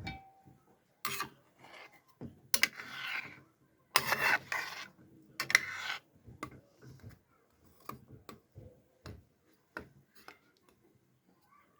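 Kitchen handling sounds: utensils and cookware clinking, knocking and scraping, with several louder noisy bursts about one to six seconds in.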